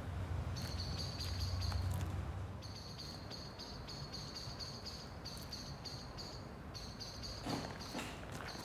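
Birds chirping: a long run of short high chirps repeated in quick groups. A low rumble runs under them for about the first two seconds.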